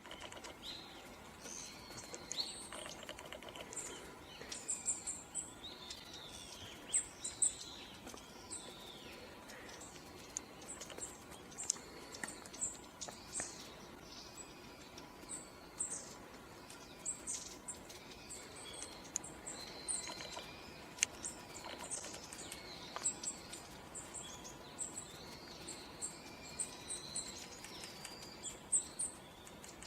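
Small woodland birds calling and chirping: many short, high, thin notes and twittering calls overlap throughout, over a steady background hiss.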